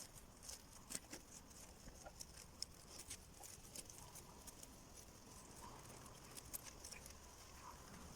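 Near silence, with faint, scattered light clicks and ticks.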